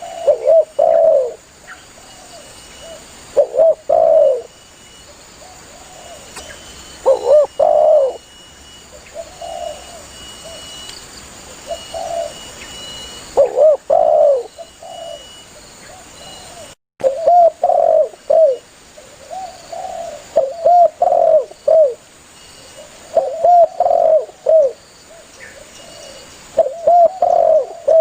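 Spotted doves cooing: groups of low, rolling coos recur every few seconds, with softer coos in between. The sound cuts out for a split second a little past the middle.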